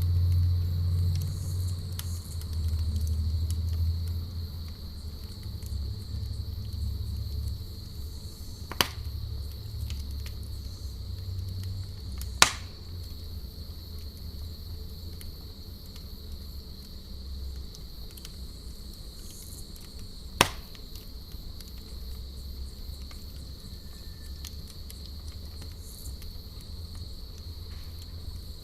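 Crickets chirping steadily in the background while a campfire pops sharply three times, with a faint crackle between. A low rumble fades away over the first few seconds.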